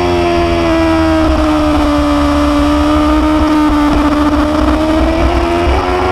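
Motorcycle engine running steadily, its pitch easing down over the first few seconds and rising again near the end, over a constant low rumble.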